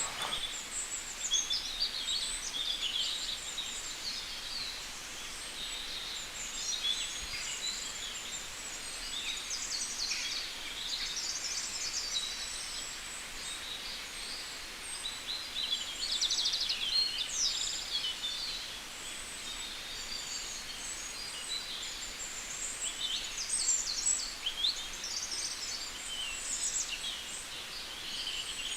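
Many birds chirping together: a dense chorus of short, high calls that goes on without a break.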